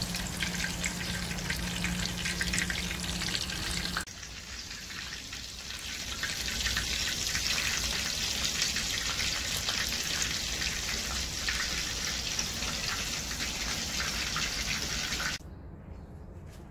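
Chapli kababs shallow-frying in oil on a flat iron tawa: a steady crackling sizzle. Near the end it drops suddenly to a much quieter sizzle.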